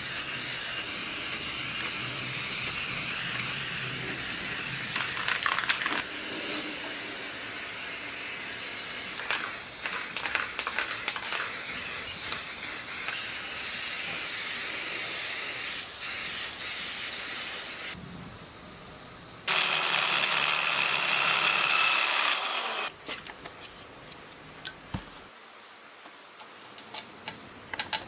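A strong hiss of compressed air from a nozzle in one long burst that cuts off about eighteen seconds in, then a second, shorter burst of about three to four seconds.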